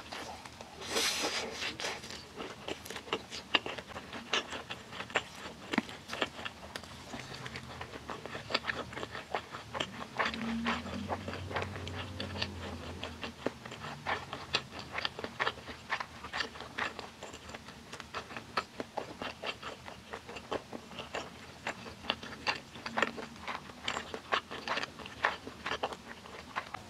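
Close-up mouth sounds of eating spicy noodles wrapped in egg-battered beef pancake: a slurp of noodles about a second in, then steady wet chewing with many small clicks and smacks.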